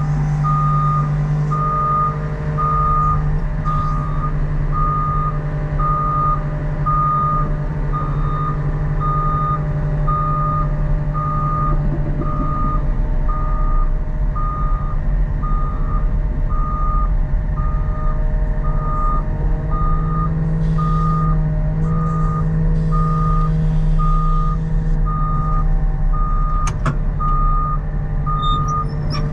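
CAT 926M wheel loader's reversing alarm beeping steadily about once a second over its running diesel engine as the loader backs up.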